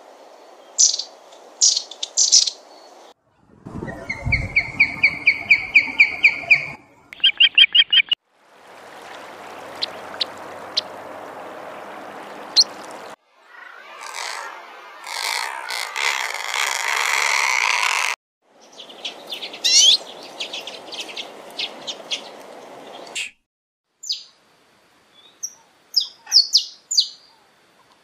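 Short bird-sound recordings of several species spliced one after another, with brief silent gaps between. It opens with the high, quick chirps of a long-tailed tit; later clips hold other calls and trills, some over a steady hiss of background noise.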